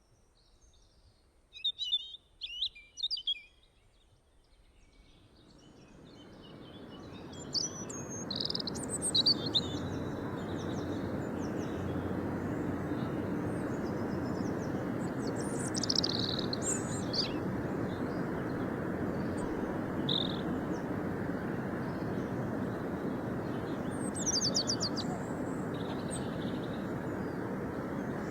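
Small birds chirping in short high calls. From about five seconds in, a steady rushing noise fades in underneath and holds while the chirping goes on.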